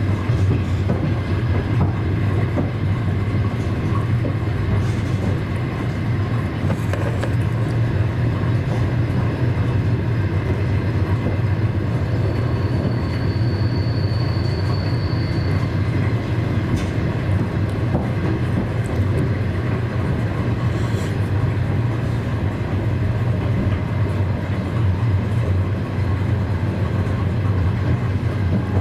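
Moving passenger train heard from inside the carriage: a steady rumble of wheels on rails with faint occasional clicks. A thin high whine comes in for a few seconds about halfway through.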